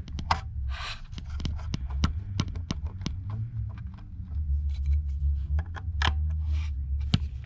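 Small metal tools clicking and scraping against tiny screws and a metal bracket inside a tablet, in irregular light taps, over a steady low hum.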